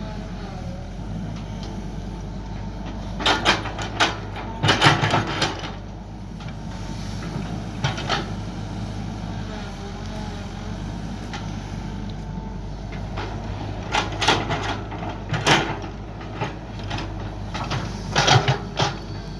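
Mini excavator engine running steadily, with groups of short loud scraping and clanking as the bucket digs, four times.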